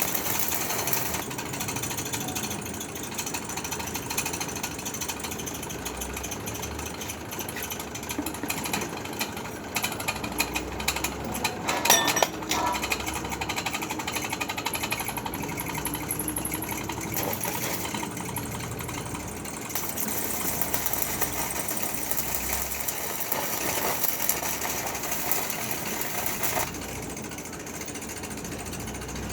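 Electric arc welding: a steady, dense crackle and sputter from the arc, with a louder flurry of crackles about halfway through, dying down near the end.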